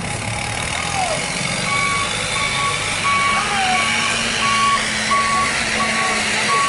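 A truck's reversing alarm beeping in a steady rhythm, about three beeps every two seconds, starting a couple of seconds in, over the low running of the truck's engine as it backs up.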